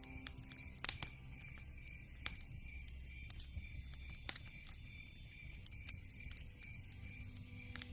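Campfire crackling, with irregular sharp pops over a low rumble of burning wood. A cricket chirps steadily in the background.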